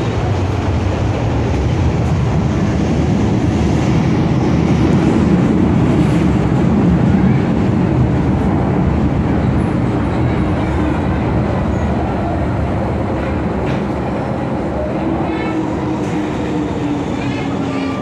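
Interior running noise of an MTR Kwun Tong Line M-Train (Metro-Cammell electric multiple unit): a steady loud rumble of wheels and motors on the track. Over the last few seconds a low whine comes in and slowly falls in pitch.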